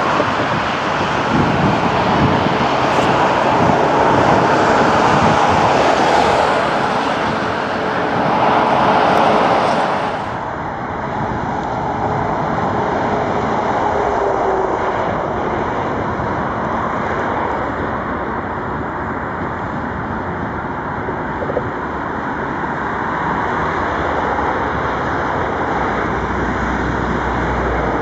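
MaK class 6400 diesel-electric shunting locomotive running while it shunts a wagon: a loud, steady, noisy rumble, strongest in the first ten seconds, that changes abruptly about ten seconds in and then carries on at a lower level.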